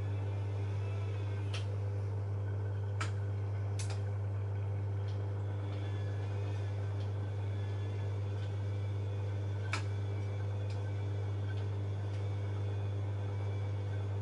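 Bosch Maxx washing machine running: a steady low hum with fainter steady tones above it, and a few sharp clicks, about four in all.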